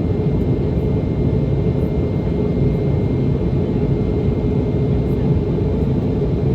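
Steady cabin noise of a Boeing 717 in flight, heard from a rear window seat near its tail-mounted Rolls-Royce BR715 jet engines: a low, even rumble of engines and airflow with a few faint steady tones above it.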